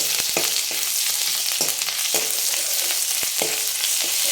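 Cabbage, corn and ginger-garlic paste sizzling in melted butter in a pan, with a steady hiss. A spoon knocks and scrapes against the pan every half second or so as the food is stirred.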